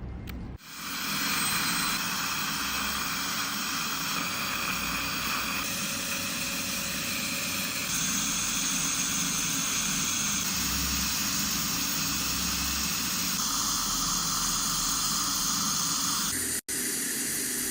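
Dental equipment running: a steady hiss with a high whine, typical of a high-speed dental handpiece with water spray and suction. The pitch and mix change abruptly several times, and the sound cuts out briefly near the end.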